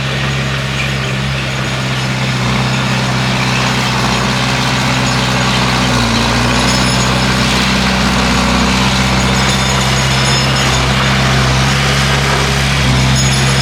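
Bulldozer's diesel engine running steadily, with a brief dip in pitch about halfway through.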